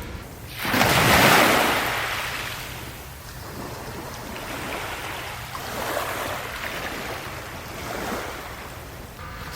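Sea waves washing in on the shore: one loud wave breaks about a second in, and smaller ones follow later.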